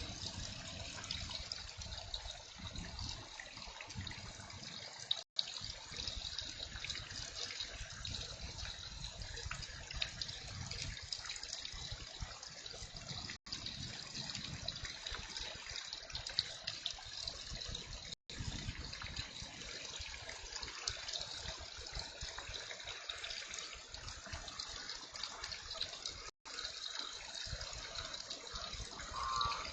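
Heavy rain falling with water running and trickling, a steady rushing hiss broken four times by a brief silent gap.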